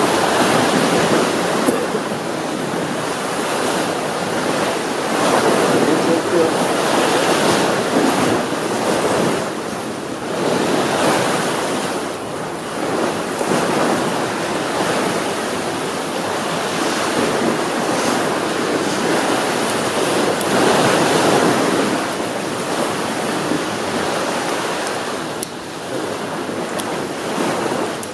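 Ocean waves breaking and washing up on a shore, swelling and ebbing every few seconds, with some wind on the microphone.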